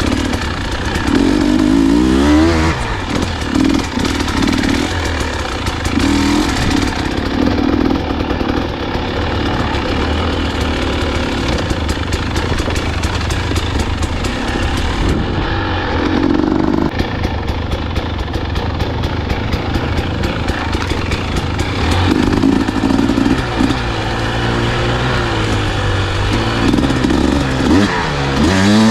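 Dirt bike engine being ridden, revving up and falling back again and again as the throttle is worked, with many sharp clicks and knocks over it.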